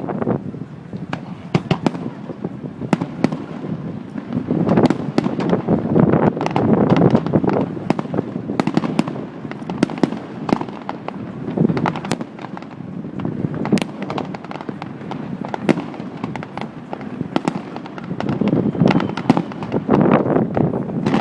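Fireworks display: a continuous barrage of sharp bangs and crackling, swelling into louder clusters of rumbling booms every few seconds.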